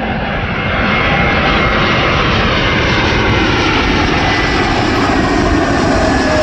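Widebody jet airliner passing low overhead on final approach to land, its engines running with a dense rushing noise and a faint whine that slides slowly down in pitch. The sound swells about a second in and then holds loud.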